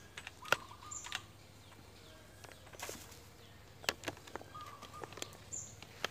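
Small birds chirping: two brief high notes falling in pitch, about a second in and again near the end. Around them come scattered sharp clicks and taps and a short rustle.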